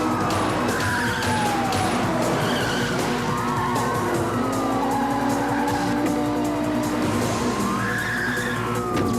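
Car-chase sound effects over a film music score: car engines revving, their pitch rising then sliding down three times, with tyres skidding.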